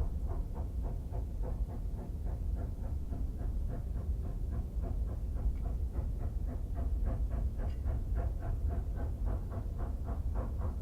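SY-class steam locomotive working, its exhaust chuffing in a steady rhythm of about four beats a second over a deep rumble.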